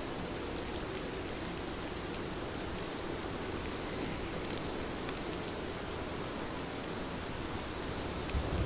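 Heavy rain falling steadily, a dense even hiss with scattered drops pattering through it. A low rumble swells up near the end.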